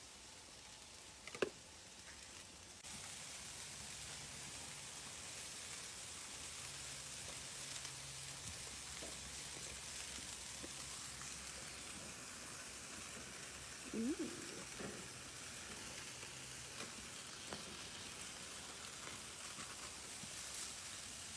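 Chipotle-marinated chicken thighs sizzling steadily on a hot grill, the sizzle starting about three seconds in, after a single sharp click.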